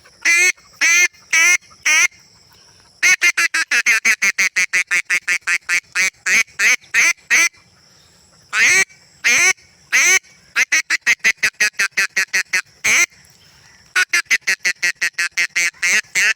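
A duck call being blown in quacks: a few single quacks about half a second apart, then long fast runs of several quacks a second, broken by short pauses.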